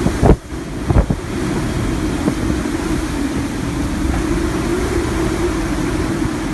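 Hurricane-force wind blasting the microphone in a continuous roar, with two loud thumps from gusts hitting it within the first second.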